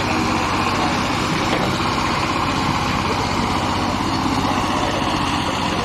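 Diesel engine of heavy machinery running steadily, an even engine rumble with no change in speed.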